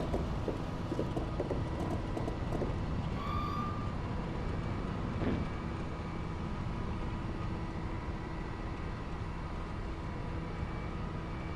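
Douglas DC-3 airliner's engines heard from inside the cabin as a steady low rumble, with scattered clicks and knocks in the first few seconds and a brief high tone about three seconds in.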